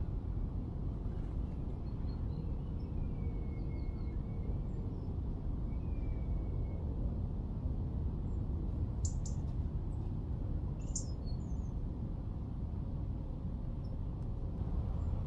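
Faint calls and chirps of small garden birds over a steady low background rumble, with two sharper high calls about nine and eleven seconds in.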